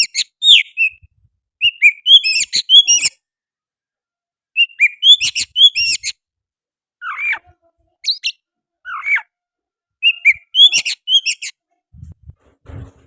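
Oriental magpie-robin singing loud, rapid whistled phrases in repeated bursts with short pauses between, its song mixed with mimicry of the sooty-headed bulbul. A few lower, slurred notes come around the middle.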